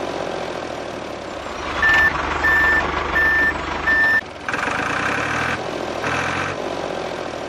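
A vehicle reversing alarm beeps four times at an even pace, about two thirds of a second apart, over a running motor noise that swells in pulses before and after the beeps.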